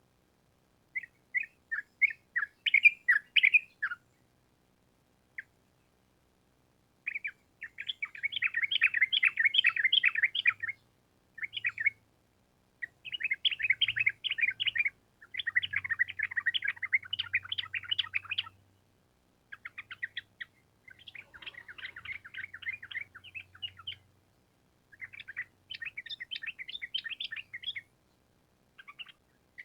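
Yellow-vented bulbul (trucukan) singing: a string of about seven quick, chattering trilled phrases, each one to three seconds long with short pauses between.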